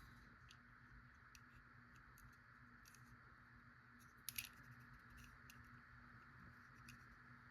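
Near silence with a few faint light clicks, the plainest a quick pair about four seconds in: a die-cast toy tow truck being handled, its removable plastic towing part taken out.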